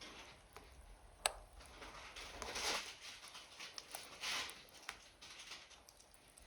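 Burning wood logs crackling in a stove: scattered sharp pops, the loudest about a second in, and two short hissing surges in the middle.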